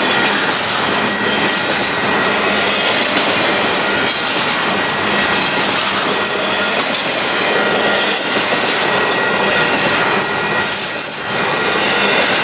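Union Pacific container train cars rolling past: a loud, steady noise of steel wheels on the rails with clatter and a faint wheel squeal, easing briefly near the end before returning.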